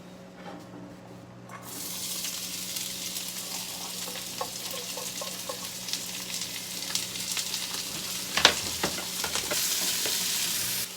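Chopped onions and carrots sizzling in hot oil in a frying pan, stirred now and then. The sizzle starts suddenly about two seconds in, and a sharp clack about eight and a half seconds in is the loudest moment.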